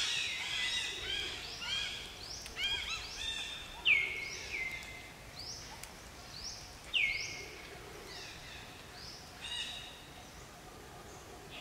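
Several birds calling in forest: many short notes sliding down in pitch, overlapping thickly at first, with the two loudest about four and seven seconds in, and thinning out near the end.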